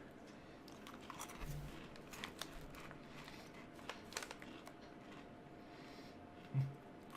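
Faint crunching and chewing of crispy lemon pepper wheat snacks, with scattered small clicks and crinkles.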